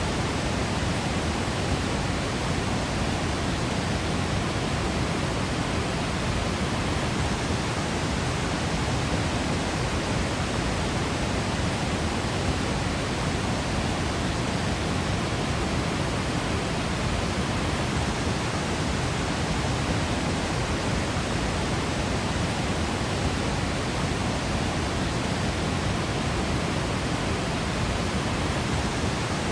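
Waterfall falling: a steady, even rush of water with no breaks or changes.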